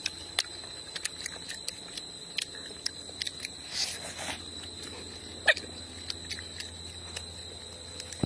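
A person chewing and biting into barbecued pig face, with irregular wet, crunchy mouth clicks and smacks, the sharpest about five and a half seconds in.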